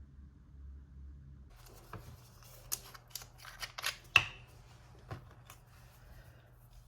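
Household objects being handled and set down: a run of sharp clicks and light knocks from about a second and a half in. The loudest knock comes about four seconds in and leaves a short ringing note.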